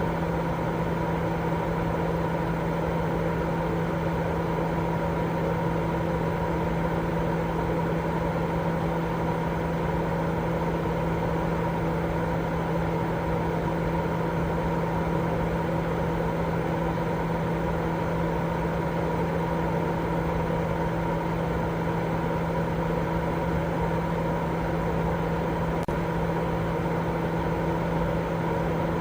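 Continuous white noise for baby sleep: a steady, unchanging hiss weighted toward the low and middle range, with a steady low hum running through it.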